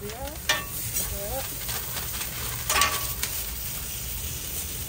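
Street-toast fillings frying on a flat griddle with a steady sizzle, and two sharp clacks, about half a second in and near three seconds in.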